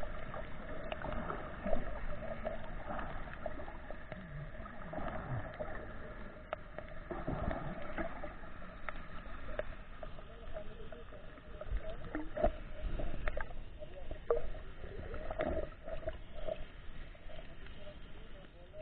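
Muffled water sounds from snorkeling, recorded through a camera's waterproof housing: irregular sloshing and swells of water movement with scattered knocks and a steady faint hum.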